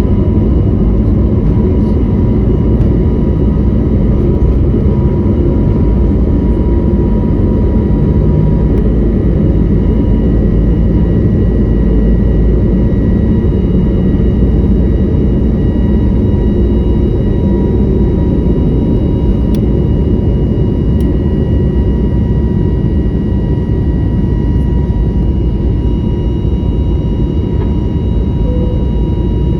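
Steady cabin noise inside an Airbus A321neo with Pratt & Whitney PW1100G geared turbofans: an even, loud jet-engine and airflow rumble with a thin steady whine on top.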